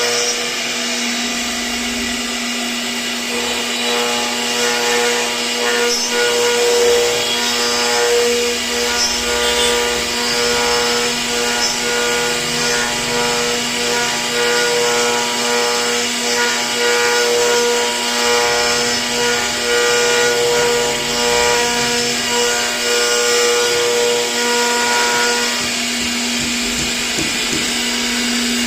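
CNC router spindle running and cutting, a steady whine with a second tone that pulses in a regular rhythm from a few seconds in until a few seconds before the end.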